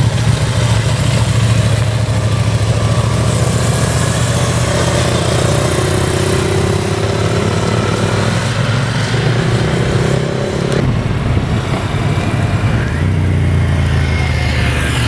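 Motorcycle engine running steadily at low revs. A higher tone joins from about five seconds in and stops abruptly near eleven seconds.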